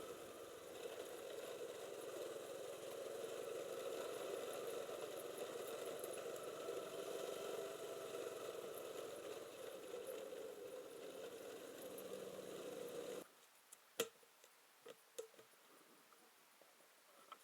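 Motorcycle engine running steadily. It cuts off abruptly about 13 seconds in, leaving quiet with one sharp click and a few small taps.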